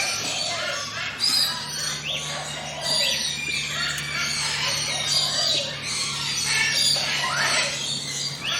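A dense chorus of many forest birds calling and singing at once: overlapping chirps, whistles and squawks, rising and falling. A faint steady low hum sits underneath.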